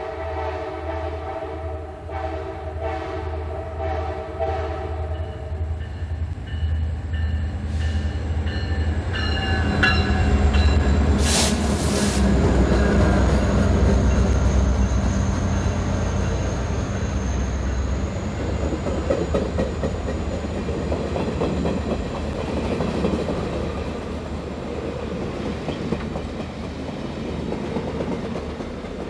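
Diesel locomotives on the CSX Santa Train sounding a multi-tone air horn for about six seconds, with another short blast about nine seconds in. The locomotive engines then rumble past, followed by the rolling noise of the train, with a brief loud rush of noise about eleven seconds in.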